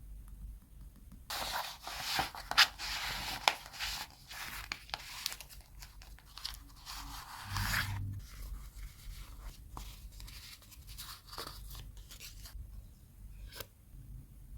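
Paper and tape being handled close to the microphone during scrapbooking. About a second in, a crackly stretch with sharp snaps runs for roughly six seconds, then gives way to softer rustling and a single click near the end.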